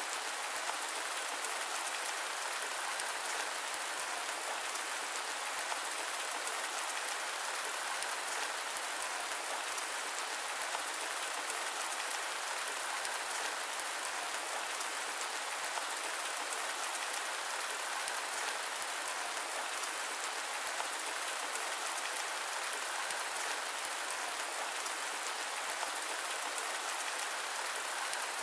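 Steady rain, a dense, even hiss of falling drops with fine patter and no thunder, as in a rain-and-white-noise sleep track.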